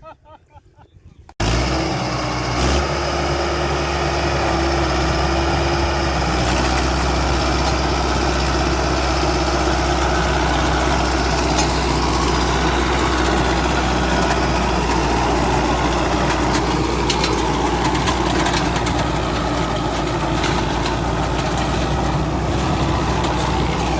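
Tractor engine running steadily under a heavy low hum, cutting in abruptly about a second and a half in after a quiet moment.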